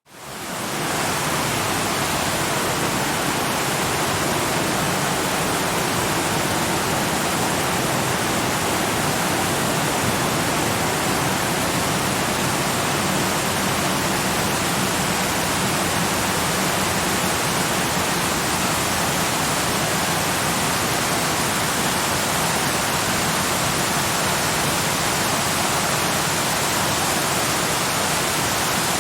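Waterfall rushing steadily, a dense even roar of falling water that fades in over about the first second.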